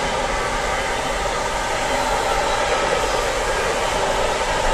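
Container wagons of a long freight train rolling past on the rails: a steady, even noise of steel wheels on track.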